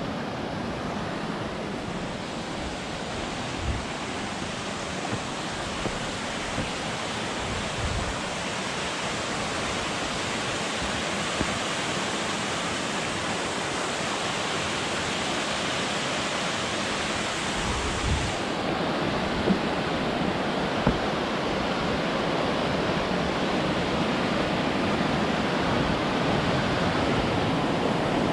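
Rushing water of a mountain stream tumbling over rocks, a steady roar that grows gradually louder, with a few faint low thumps.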